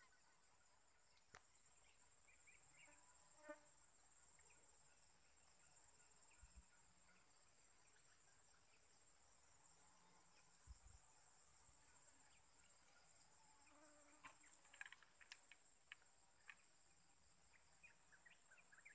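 Faint, steady high-pitched insect chorus, a continuous buzzing trill, with a few faint scattered chirps and ticks.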